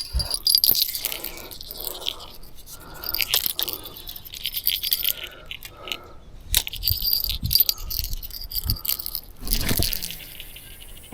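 Fishing gear being handled after a lost fish: light metallic jingling and rattling with scattered clicks and scrapes, like a rod bell shaking as the line is reeled in.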